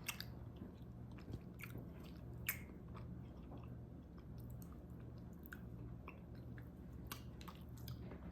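A person quietly chewing a bite of chocolate, with soft, scattered mouth clicks; one sharper click about two and a half seconds in.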